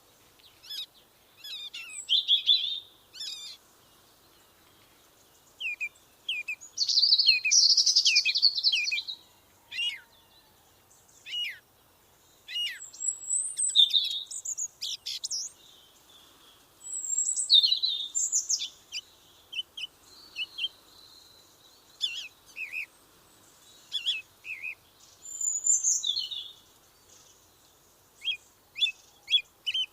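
Songbirds singing: a steady run of varied high chirps, trills and short falling whistles, phrase after phrase with brief pauses between.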